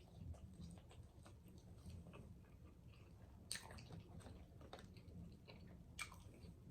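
Faint close-miked chewing of fast food, with small wet mouth clicks throughout and two sharper clicks about three and a half and six seconds in.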